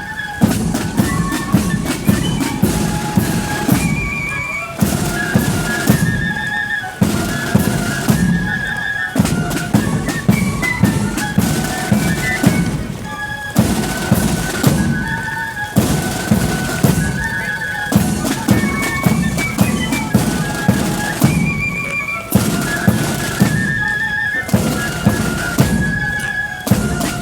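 Marching flute band playing a tune: flutes carry a high piping melody over bass and snare drums keeping a steady march beat.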